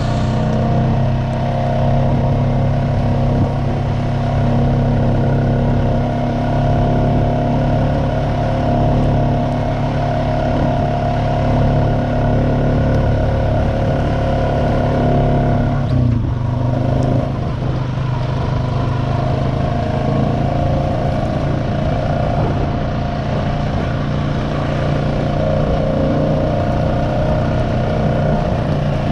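Honda Rancher ATV engine running steadily while riding, its note dipping briefly about halfway through before settling back.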